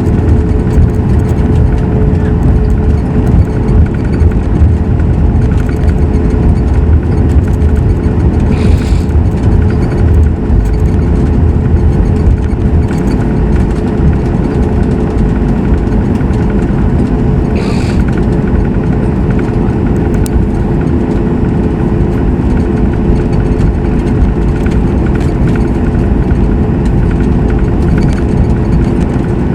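Boeing 737 MAX 8 cabin noise with the CFM LEAP-1B engines at idle: a steady hum over a low rumble as the airliner taxis after landing.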